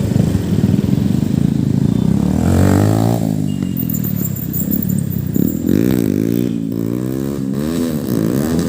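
Motorcycle engine running under way, its pitch rising and falling several times as it revs up and eases off.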